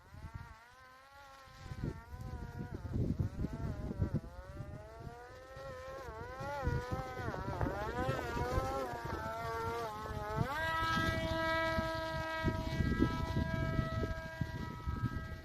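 Parrot Disco fixed-wing drone's electric motor and propeller whining. The pitch rises and falls with changing throttle, then climbs about ten and a half seconds in and holds steady. Low wind rumble runs underneath.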